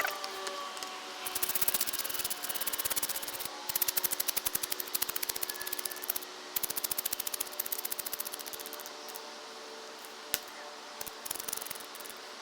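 Knife whittling a wooden stick into a chopstick: quick, rapid scraping strokes in runs of a second or two with short pauses between, and one sharp click about ten seconds in.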